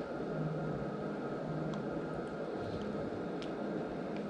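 Steady background hum of a small room, with a few faint light ticks from trading cards being handled.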